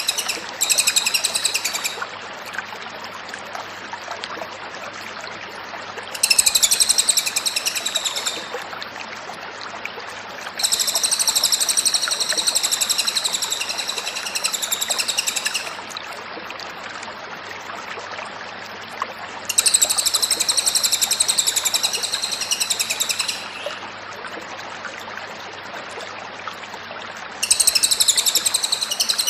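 A cililin songbird singing a high, rapid, warbling song in bouts of a few seconds each, four times, separated by pauses of about three to four seconds. This is a masteran recording, a loop of a bird in full song used to tutor captive songbirds. A steady hiss and a faint low hum run underneath.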